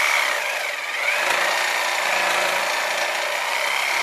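Reciprocating saw (Sawzall) running steadily as it cuts through a motorcycle's metal rear passenger seat bracket, with a high, slightly wavering whine.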